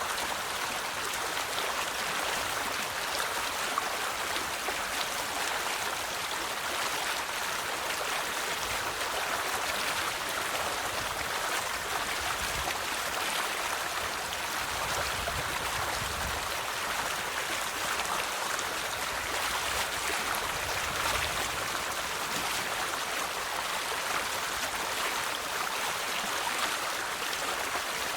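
Flowing river water, a steady rushing and babbling with no breaks.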